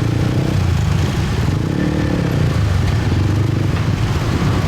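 Many motorbike engines running together at low speed in a tightly packed crowd of riders, with one engine's pitch rising and falling about two seconds in.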